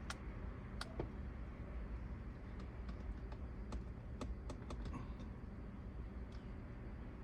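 Scattered light clicks and taps, about a dozen at irregular spacing, as an L-shaped hex key works at the steering wheel's fasteners, over a low steady rumble.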